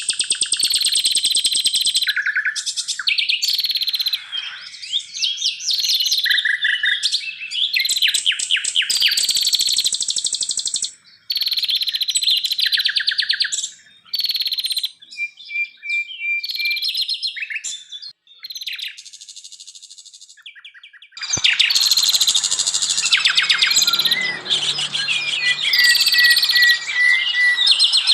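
Wild songbirds singing repeated fast trills and sharp chirps, several phrases overlapping. About 21 s in there is a click, and a busier chorus with a faint low hum under it follows.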